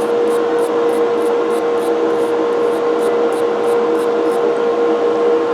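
Motor-driven wire brush running with a steady whine, scrubbing a cast-iron coffee grinder part, with short scratchy strokes about three times a second.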